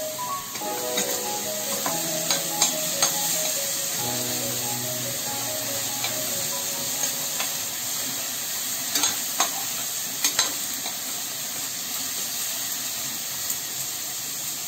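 Chopped bottle gourd and spices sizzling in a stainless-steel kadhai while a spoon stirs them, scraping the pan with sharp clicks now and then and a cluster of clicks about two-thirds of the way through.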